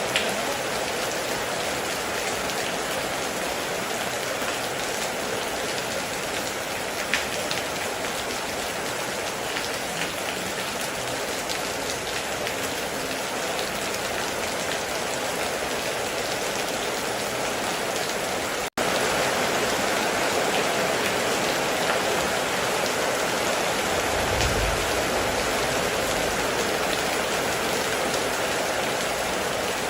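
Heavy rain falling steadily. About two-thirds of the way through it cuts out for an instant and comes back slightly louder, and a few seconds later there is a brief low rumble.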